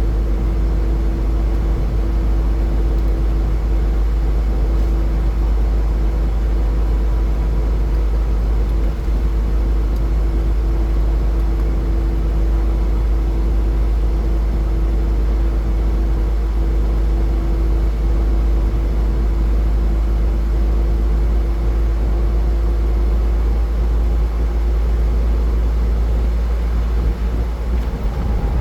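Car travelling at highway speed: steady road and tyre noise over a deep rumble, with a constant hum that fades in the second half.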